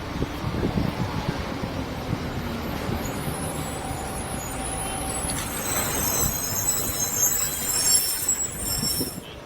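Eurocopter BK117-C1 helicopter's twin turbine engines running, a low rumble under a high-pitched turbine whine that comes in about three seconds in and grows louder, cutting off suddenly just before the end.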